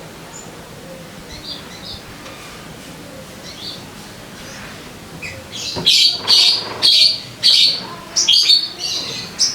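Sogon bird calling: faint scattered chirps at first, then from a little past halfway, loud harsh calls repeated about twice a second. This is lure song, played to set caged birds singing.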